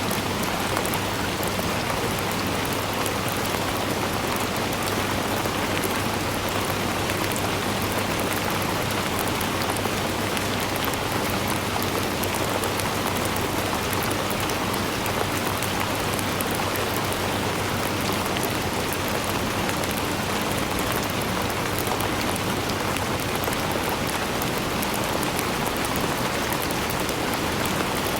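Steady rain with a dense patter of drops hitting surfaces, even and unbroken.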